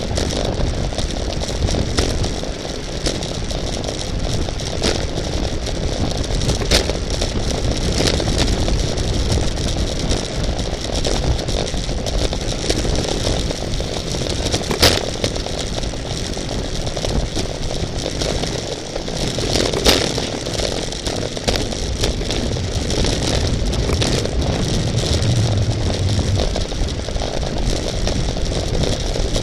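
Steady wind rush and road rattle picked up by a camera riding on a racing bicycle, with a few sharp clicks about 7, 15 and 20 seconds in.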